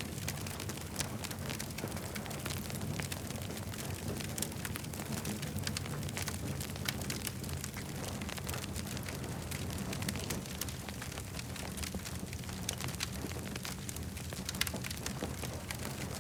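Campfire crackling, with frequent small sharp pops and snaps over a steady low rumble.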